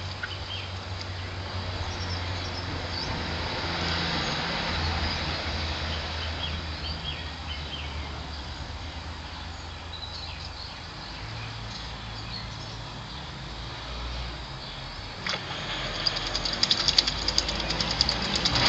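Back garden ambience: small birds chirping faintly and intermittently over a steady low rumble. Near the end comes a quick run of sharp, rapid pattering ticks.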